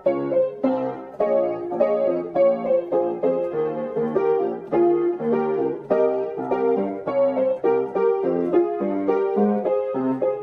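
Background music: piano playing a steady run of notes several times a second.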